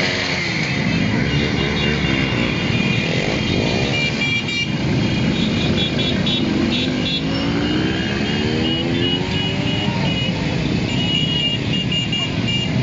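A caravan of motorcycles riding past, many engines running together, with engines revving up and down in pitch several times.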